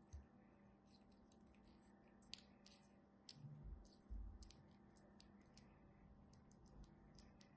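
Faint, sparse clicking and crackling over low room hiss, with a couple of soft low thumps around the middle.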